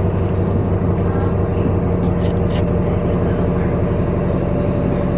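Steady low drone of a running vehicle engine, even throughout.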